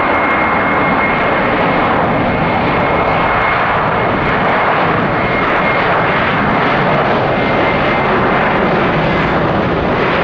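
Jet airliner's engines running loud and steady close by, a dense roar with a faint high whine that fades out partway through.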